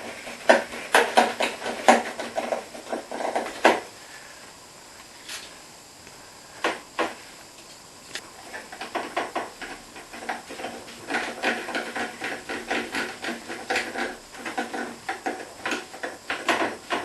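Dishwasher housing panels being handled and slid into place, giving dense runs of rapid knocks and rattles. A quieter stretch with a few single knocks comes about five to seven seconds in, then the clattering starts again.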